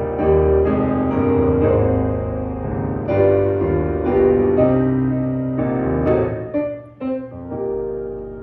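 Piano music: a slow run of sustained notes and chords, briefly fading about seven seconds in before the next phrase begins.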